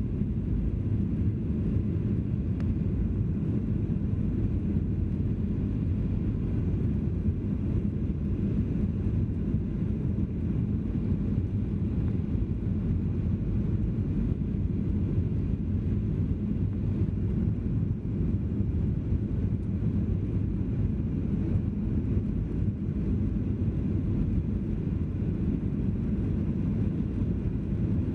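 Steady low rumble of a Boeing 737-800's jet engines heard inside the passenger cabin, with a faint even hum and no change in level.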